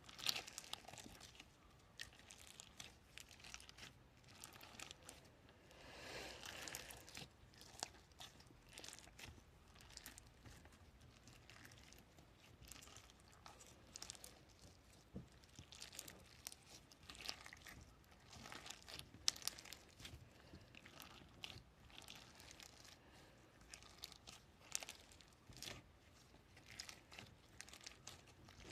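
Faint, irregular crinkling and crackling of something handled close to the microphone for ASMR, with a denser stretch about six seconds in.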